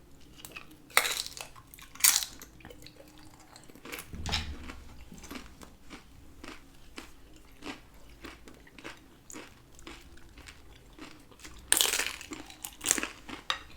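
Person biting into crunchy fried tortilla (tostada or chip) with aguachiles, with a few loud crunching bites and steady chewing crunches in between, several a second.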